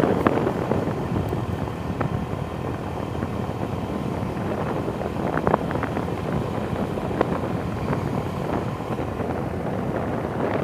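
Steady wind rushing over the microphone with a motorcycle running underneath, as heard while riding.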